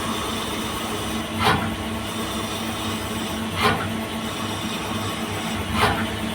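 CNC lathe running, a steady machine hum with a short noisy swell about every two seconds, three times.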